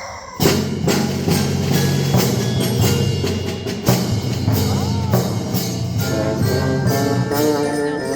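Band playing a lively galop, with percussion strokes keeping a steady beat under sustained wind notes.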